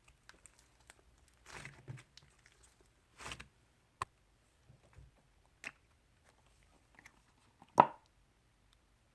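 Slime being pressed and stretched by hand, giving scattered wet squishes and sharp little pops. The loudest pop comes near the end.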